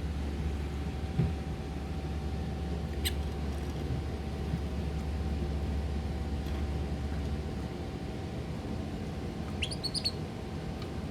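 Pet bird giving a single short chirp about three seconds in and a quick run of chirps near the end, over a steady low hum.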